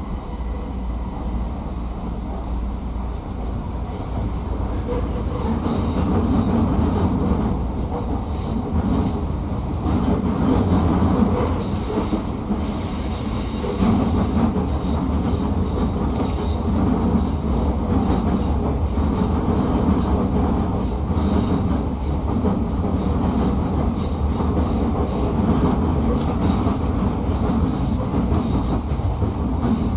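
Running noise heard aboard a 209 series electric train's motor car: a steady rolling rumble of steel wheels on rail that swells and fades every second or two. A faint, thin, high squeal, typical of wheel flanges on a curve, is heard mostly in the first half.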